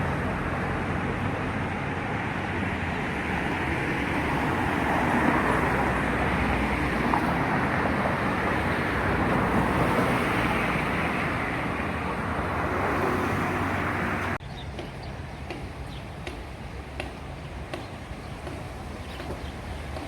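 City street traffic noise, a loud continuous rush of passing vehicles that cuts off suddenly about 14 seconds in, leaving a quieter street background with faint scattered clicks.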